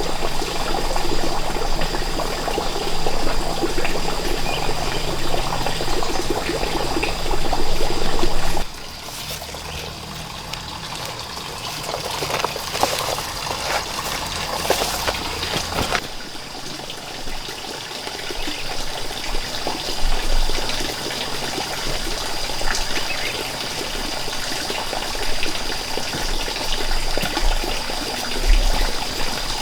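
Water trickling and running, with a steady high whine. The sound changes abruptly about nine seconds in and again about sixteen seconds in.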